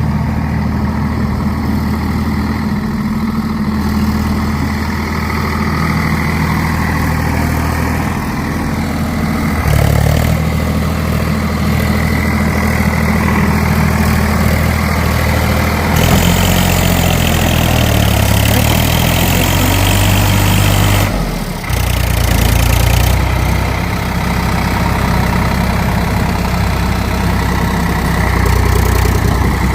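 Swaraj 855 tractor's diesel engine running under changing load. Its speed and note shift up about 10 and 16 seconds in, with more hiss from the later change. It drops briefly about 21 seconds in, then picks up again, as the tractor struggles to get up onto the road.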